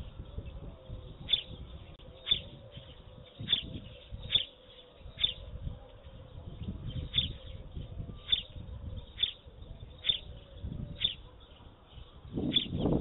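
A small bird chirping again and again, one short high chirp about every second, over a low rumble.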